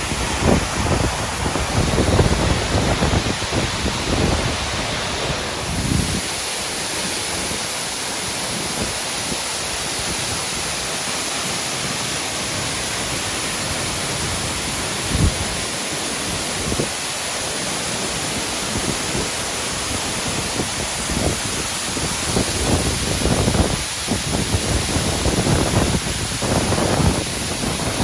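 Dynjandi, a large cascading waterfall, rushing steadily. Gusts of wind buffet the microphone with low rumbles during the first few seconds, briefly around the middle, and again over the last several seconds.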